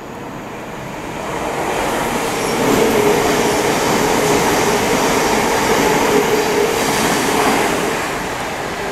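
Electric multiple-unit passenger train passing through the station without stopping. The rumble of wheels on the rails builds to a steady peak with a constant hum running under it, then begins to fade as the train moves away near the end.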